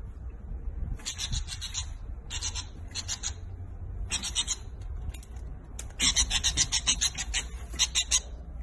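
Small bird chirping in runs of rapid, harsh, high-pitched chirps: short runs about a second, two and a half seconds and four seconds in, then a longer run from about six to eight seconds. A steady low rumble lies underneath.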